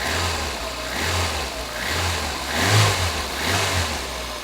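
A Lada Kalina's freshly reassembled engine running and being revved in short throttle blips, about five in four seconds. This is a test of acceleration while the fuel-rail pressure is watched.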